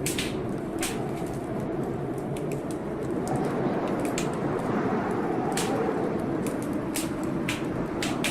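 Blizzard wind blowing steadily, with a wood fire crackling over it in a scattering of sharp pops, about seven in all.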